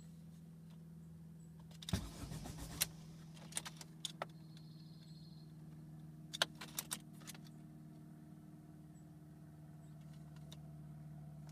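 Car keys jangling and clicking in two short bursts over a steady low hum, with a brief high-pitched beeping between the bursts.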